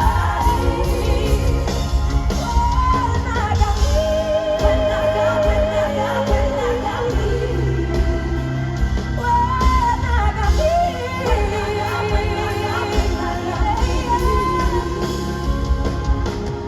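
Live pop concert music: a solo singer holds long, wavering notes and glides between them over a full band with heavy bass.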